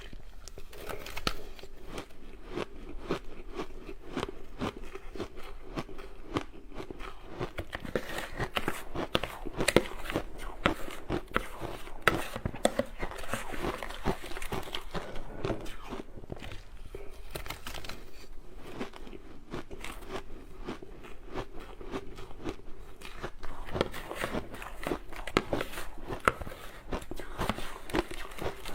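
Ice being bitten and crunched in the mouth close to the microphone: a dense, continuous run of sharp cracks and crunches.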